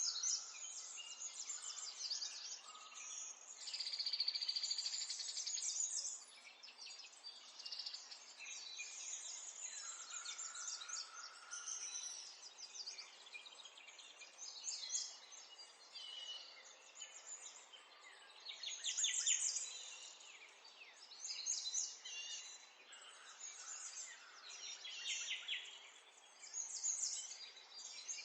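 Several small songbirds singing and chirping at once, overlapping rapid trills and twittering phrases, with louder spells of song about four seconds in and again about two-thirds of the way through.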